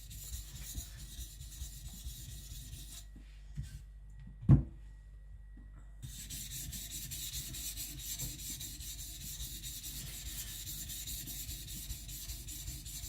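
Kiridashi blade being stroked on a Naniwa Professional 400 water stone under light pressure, a steady wet scraping. The scraping stops about three seconds in, a single thump comes midway and is the loudest sound, and the strokes resume about six seconds in.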